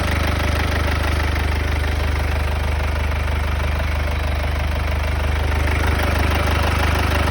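Mercedes OM651 four-cylinder diesel of a W205 C220 CDI idling after a cold start, with an even, rapid clatter over a steady low hum: the strange noise from the front of the engine that the owner is asking about.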